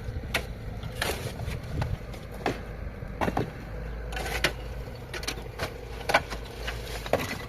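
Irregular sharp knocks and clicks, a dozen or so spread unevenly, over a low steady rumble and a faint hum.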